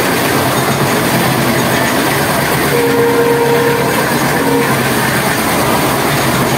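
Indian Railways ICF passenger coach running at speed, a steady loud rush of wheels on rails and passing air heard from outside the coach side. About three seconds in, a faint steady whine rises over it for under two seconds.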